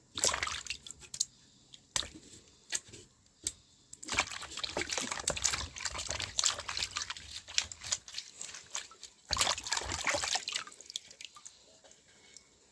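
Water sloshing and trickling in a few bursts, the longest lasting about four seconds, with scattered sharp clicks and taps between them.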